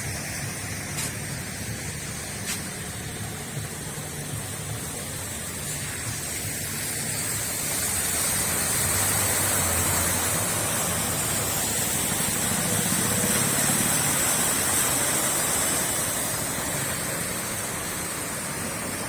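Steady rain, with a vehicle's tyres hissing through the wet road as it passes, louder for several seconds in the middle.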